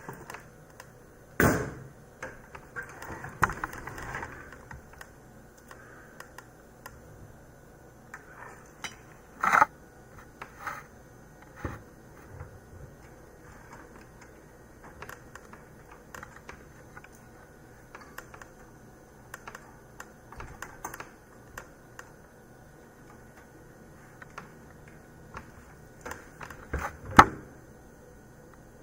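Hands working on computer hardware: scattered light clicks and taps, with a few sharper knocks about a second and a half in, around ten seconds in, and the loudest near the end.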